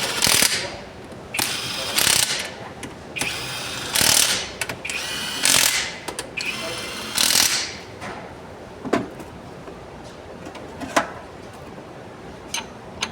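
Hand ratchet wrench worked in repeated strokes, a half-second ratcheting burst about every second and a half, then a few single clicks near the end.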